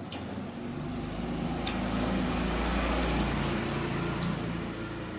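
A passing motor vehicle: a low rumble that swells to a peak about three seconds in and then fades, with a few faint clicks over it.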